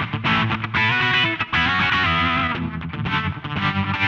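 Electric guitar passage played back through SSL MODULE8's Space reverb module, soloed so only the reverb module's output is heard. Many notes are plucked in quick succession.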